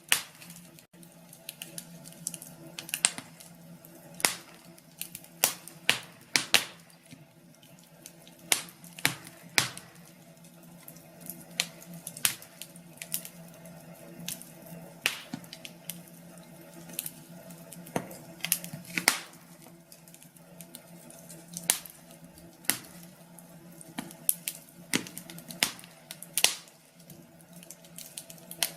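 Wood fire in a fireplace crackling, with irregular sharp snaps and pops over a steady low hum.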